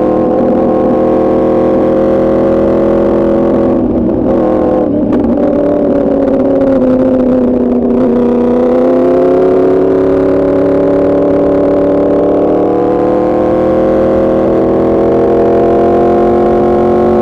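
2024 Yamaha R1's crossplane inline-four running through an Arrow Pro Racing exhaust under way. The engine note holds steady, breaks briefly about four seconds in, sinks in pitch until about eight seconds in, then rises slowly as the bike pulls again.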